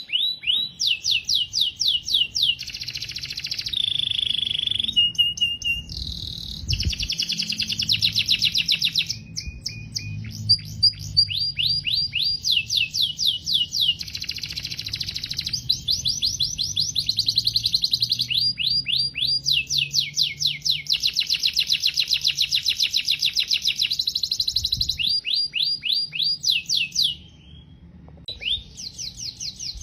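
Canary singing a long, continuous song of rapid repeated trills and rolls, changing from one phrase to the next, with a short pause near the end.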